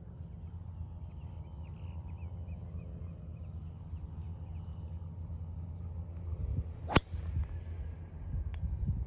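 A golf driver striking a teed-up ball on a tee shot: one sharp, loud crack about seven seconds in, over a steady low hum.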